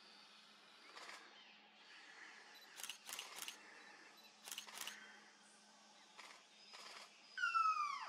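Black-headed Berryeater giving its loud whistled call, one long downslurred note near the end, over faint forest background. Several sharp clicks come a few at a time before it.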